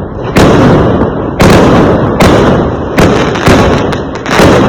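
Fireworks exploding: about six loud bangs in quick, uneven succession, each trailing off in a rumble that runs into the next.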